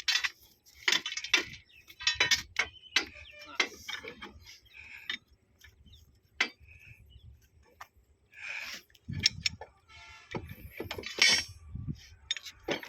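Metal tools and fittings clinking and knocking against one another in irregular strikes, some with a short metallic ring, as a railway point machine is bolted up.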